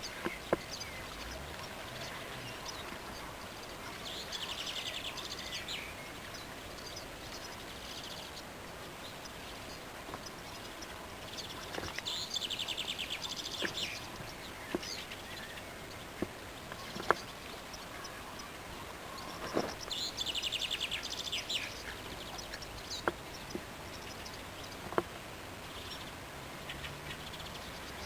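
A songbird sings a short, fast trilled phrase three times, about eight seconds apart, over a steady background hiss. A few sharp clicks fall in between.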